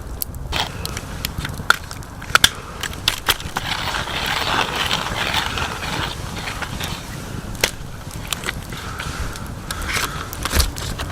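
Hand coffee mill grinding coffee beans: a continuous gritty crunching with irregular sharp clicks.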